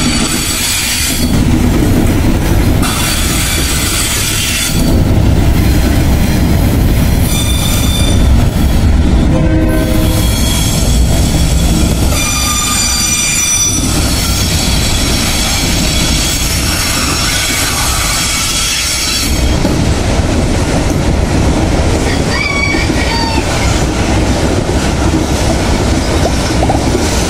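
Loaded freight train rolling past: container flatcars and gondola wagons, with steel wheels rumbling over the rails and high-pitched wheel squeal coming and going. The squeal fades about two-thirds of the way through, leaving the rolling rumble.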